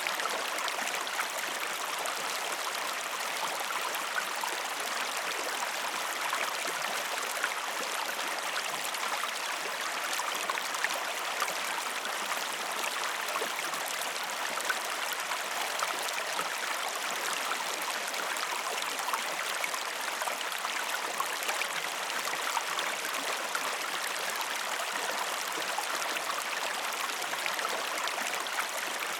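River water flowing steadily, an even rushing wash with small trickling splashes.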